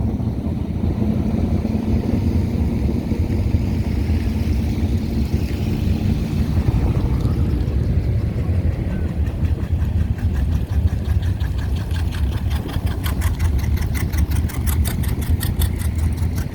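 Car engines running as vehicles drive slowly past, with a steady engine hum for the first several seconds. Wind rumbles heavily on the microphone throughout, and a fast, even ticking comes in near the end.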